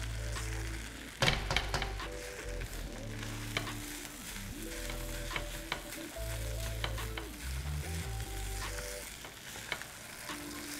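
Fried rice sizzling in a nonstick wok as a spatula stirs and turns it, with sharp clicks and scrapes of the spatula against the pan, loudest just over a second in. Background music with a steady bass line plays underneath.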